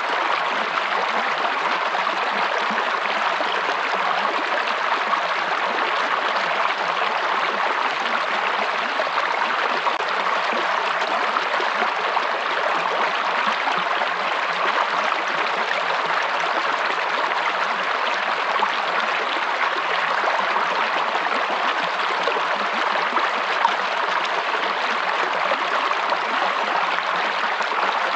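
Stream of water flowing steadily over rocks, a constant splashing, babbling rush.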